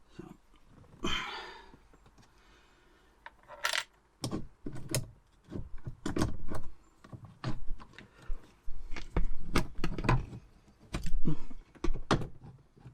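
Small metal parts being handled: a short rubbing noise about a second in, then a run of irregular clicks, knocks and rattles.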